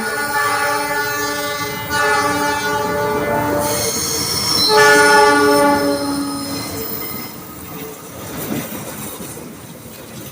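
Pangrango passenger train's diesel locomotive sounding its multi-tone horn in three blasts, the last starting about five seconds in, with wheel and rail noise of the passing train that fades toward the end.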